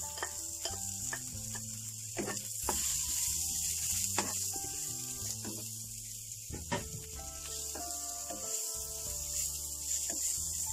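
Sliced shallots, garlic and red chillies sizzling in oil in a non-stick frying pan as they are stir-fried, with a spatula scraping and knocking on the pan now and then. Soft background music plays underneath.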